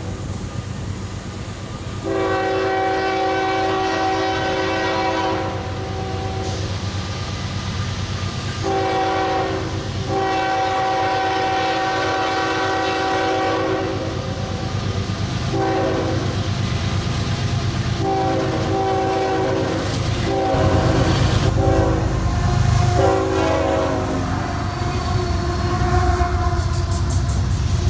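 Freight locomotive's multi-chime air horn sounding a series of long and shorter blasts, over the low rumble of the diesel locomotive and train. Near the end the rumble grows louder as the train comes by, with wheels clacking on the rails.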